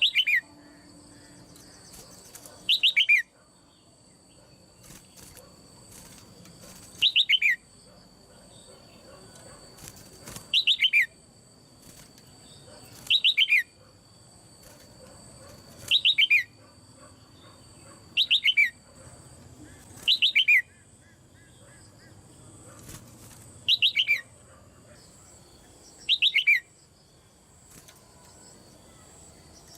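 A caged female red-whiskered bulbul calling, a call used to set male bulbuls singing. Each call is a quick run of falling chirps, repeated about ten times at gaps of two to four seconds.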